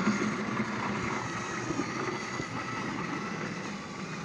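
Battery-powered TrackMaster toy train motors whirring steadily, with a light rattle from the wheels running over plastic track.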